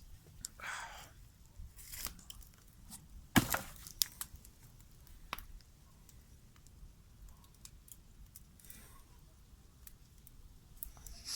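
Scattered snaps and cracks of wood being broken, with one sharp crack about three and a half seconds in and a few short tearing rustles.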